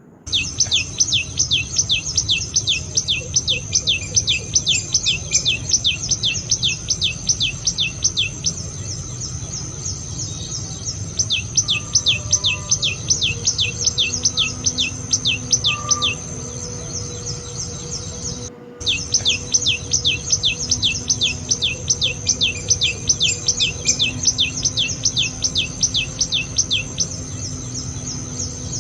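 Tailorbird calling in long runs of quick, sharp chirps, each falling in pitch, about four a second, with two pauses between runs. A steady high insect whine runs underneath.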